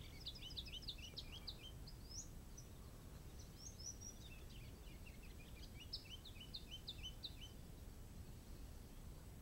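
Songbird singing, two fast bouts of short high notes in quick succession, the second starting a little over a second after the first ends and stopping near the three-quarter mark. A faint steady low rumble lies underneath.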